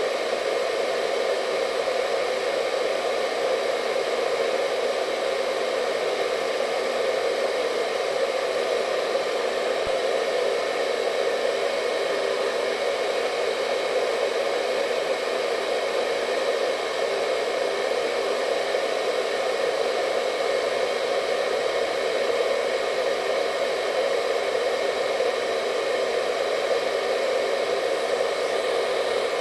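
Hair dryer running steadily: an even rushing blow of air with a faint motor whine, unchanging throughout.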